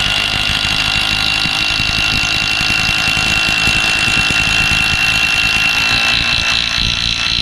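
Impact wrench driving a long hex-head screw into a timber roof beam through a socket: a loud, steady fast hammering under a high whine, held without a break.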